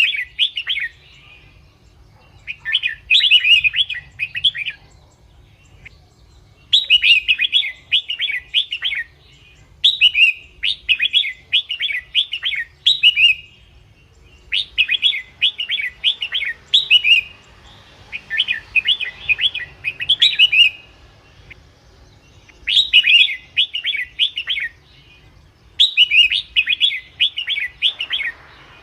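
Red-whiskered bulbul singing: repeated phrases of quick, warbling chirps, each a second or two long, with short pauses between. This is the kind of song played to lure wild bulbuls or to rouse caged ones.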